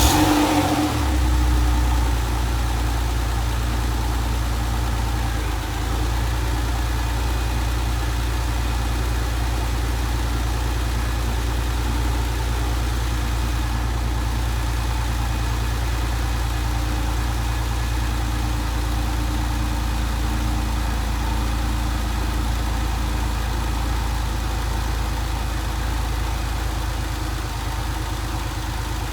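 Car engine catching on a cold start, loudest as it fires, then running at a steady fast cold idle, heard from outside the car at the exhaust.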